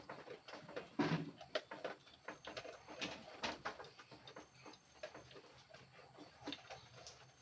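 A dog moving about, with scattered light taps and scuffles of its paws and claws and a louder short sound about a second in.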